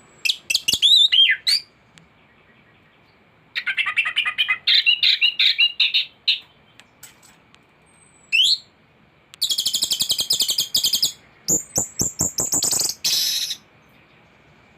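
Anis (ground thrush) singing a loud, varied song of whistled phrases with mimicked notes of other birds. The song comes in five bursts separated by short pauses, with a fast buzzy trill near the middle.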